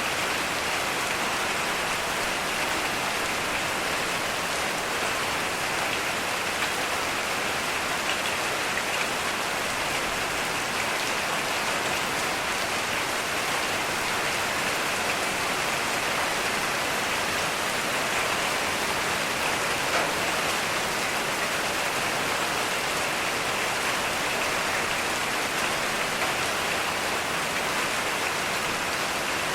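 Heavy rain falling steadily, an even hiss of rain on surfaces with scattered individual drops ticking.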